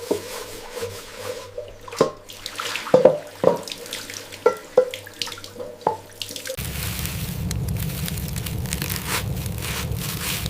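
Water dripping and splashing in a run of sharp drops and small clinks, then, after an abrupt change about six and a half seconds in, a steady rush of water.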